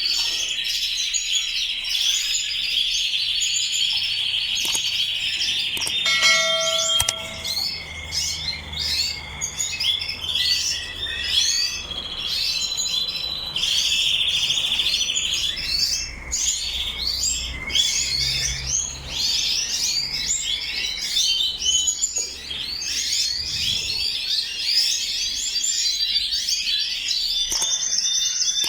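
Many colour canaries chirping and singing together in a breeding room, a dense mix of chirps with rolling trills. A short chime-like tone sounds about six seconds in.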